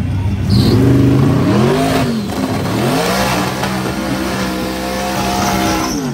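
A drag-racing vehicle's engine accelerating hard. Its pitch climbs, drops sharply at a gear change about two seconds in, climbs and holds again, then falls away near the end.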